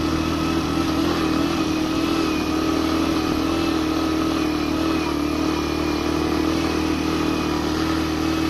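Suzuki GN 125's single-cylinder engine running under steady load at a near-constant speed, pulling a rider and passenger uphill.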